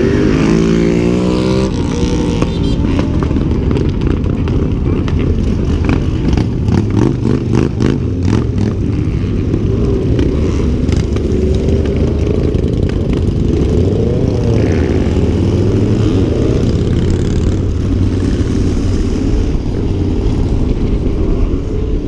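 Dirt bike engines running and revving: the pitch climbs at the start, then a steady engine drone carries on, with a run of sharp clicks about six to nine seconds in.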